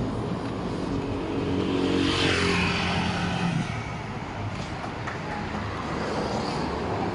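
A motor vehicle passing close by on the street over general traffic noise. Its engine hum peaks and its pitch falls about two seconds in, then drops away after about three and a half seconds.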